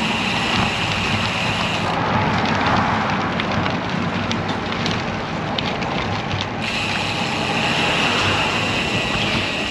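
Steady wind noise on the microphone of a riding road bike, with tyre and road rumble underneath. From about two seconds in to past the middle, a run of fine ticking comes through.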